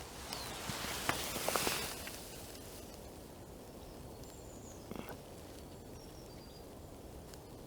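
Rustling and a few light clicks over the first couple of seconds, then faint, brief high chirps of small birds.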